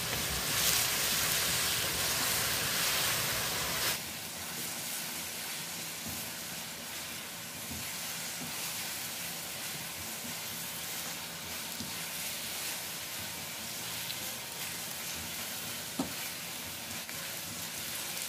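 Buffalo sauce sizzling in a hot wok as breaded chicken wings are stirred and tossed through it with a silicone spatula. The sizzle is louder for the first four seconds, then settles to a softer, steady hiss, with one sharp click about sixteen seconds in.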